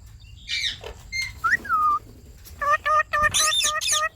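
Pet Indian ringneck parakeet calling: a falling whistled sweep and a rising-then-falling whistle, then a fast run of short repeated calls, about four a second, for the last second and a half, with higher shrill chirps over them.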